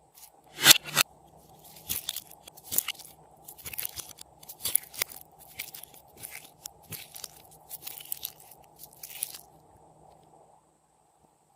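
Store-bought slime being squeezed and worked by hand, giving a run of crunchy, crackling pops. The loudest crunch comes right at the start, and the crackling stops a couple of seconds before the end.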